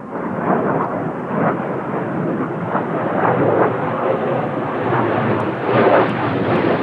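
Kawasaki T-4 jet aircraft passing overhead, their engines' roar swelling in suddenly and staying loud, growing slightly brighter as they come nearer.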